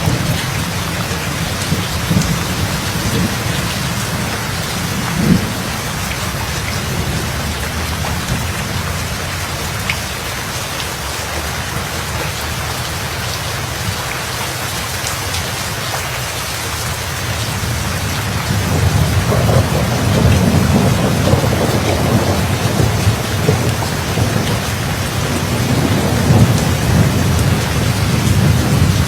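Steady heavy rain with rolling thunder. The deep rumble eases off in the middle, then a new roll of thunder builds about two-thirds of the way through and carries on to the end.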